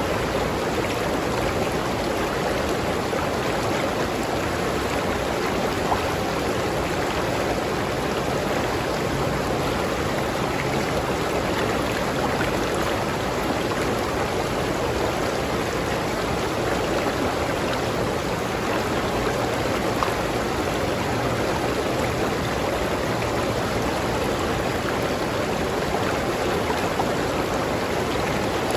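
River stream flowing over rocks, a steady rushing and bubbling of water.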